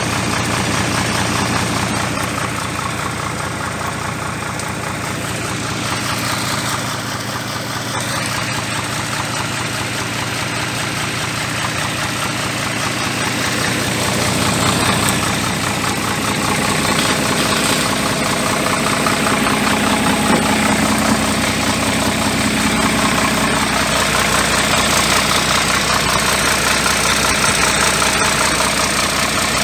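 Isuzu 6HE1 inline-six diesel engine in an Isuzu Forward truck idling steadily, getting a little louder about halfway through.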